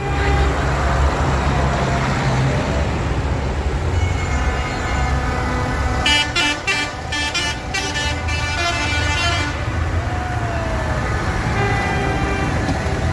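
Diesel tractor engines running with a heavy low rumble. A horn sounds, then about six seconds in comes a rapid string of short horn toots lasting about three seconds.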